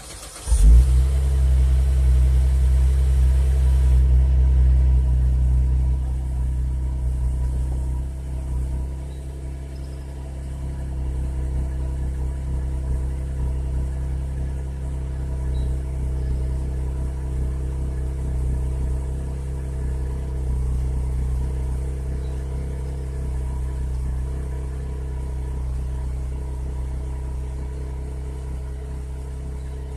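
A 2009 Chevrolet Traverse's 3.6-litre direct-injection V6 starts, heard at the exhaust. It catches about half a second in and runs at a loud fast idle for several seconds, then settles to a lower, steady idle.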